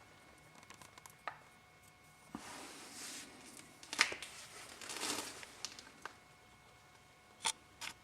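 Handling noises: rustling and scraping of material, a few short swishes and scattered light clicks and knocks.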